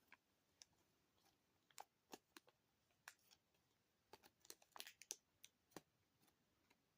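Faint, scattered clicks and crinkles of plastic packaging being handled as a small action figure is taken out of its tray, with a brief cluster of crackles about four to five seconds in.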